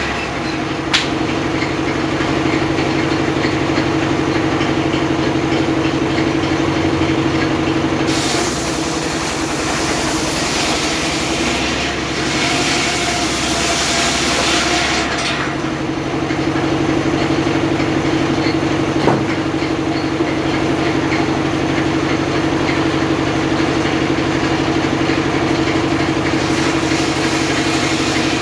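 Engine of a homemade circular sawmill running steadily with a constant hum. About a third of the way in, a harsher hiss joins it for some seven seconds, then drops away.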